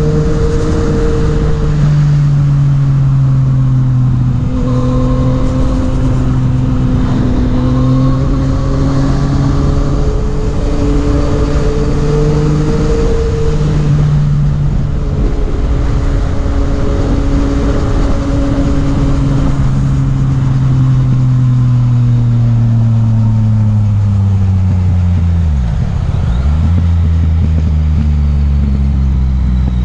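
Yamaha MT-09's three-cylinder engine running on the road, its note climbing and dropping with throttle and gear changes. It winds down to a low note about three-quarters of the way through, then holds steady, over constant wind rush.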